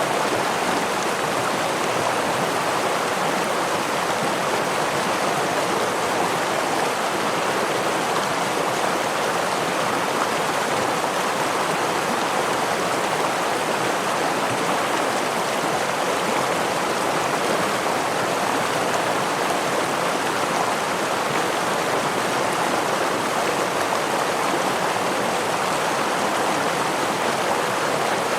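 Water of a stream or small waterfall running over rocks, a steady, even rush.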